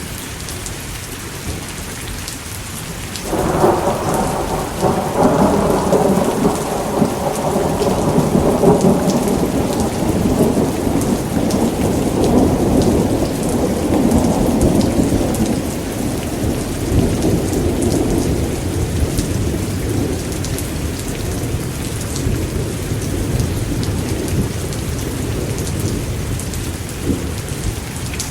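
Steady rain with a long roll of thunder that breaks in suddenly about three seconds in and rumbles on, slowly fading over the rest of the stretch.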